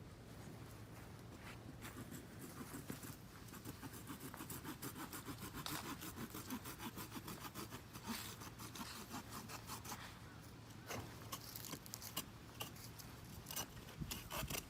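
A long run of quick, rapidly repeated rasping or scraping strokes, followed by scattered clicks and knocks.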